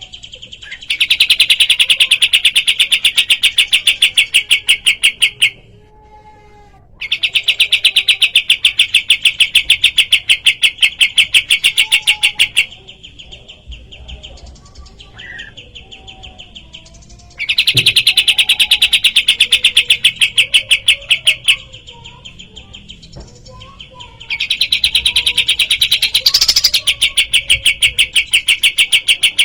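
Kapas tembak songbird giving its rapid-fire song: loud trains of fast, evenly repeated notes, each lasting several seconds. There are four such bouts, with softer scattered chirps and warbles between them.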